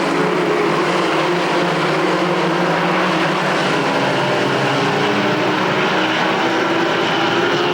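A field of short-track race trucks running laps together: several racing engines at full song blend into one steady, loud drone.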